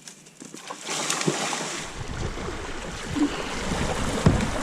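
Rushing river water and splashing, growing louder about two seconds in as low buffeting rumble, likely wind on the microphone, joins in.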